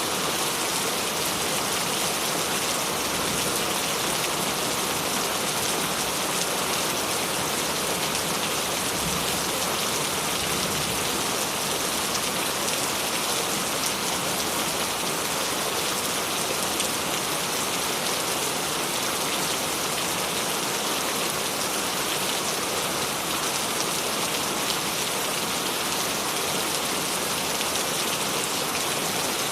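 Gentle rain falling steadily: a dense, even patter of many small drops that holds the same level throughout.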